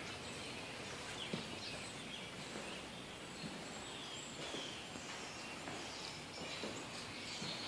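Quiet steady background hiss with faint, scattered bird chirps from outdoors and a few soft knocks.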